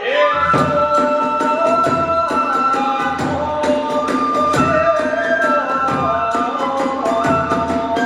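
Kagura accompaniment: a bamboo transverse flute playing a held, sliding melody over steady drum beats and the clash of small hand cymbals.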